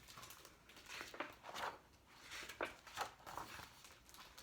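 Faint paper rustling, a few soft brushes of a picture book's pages being handled.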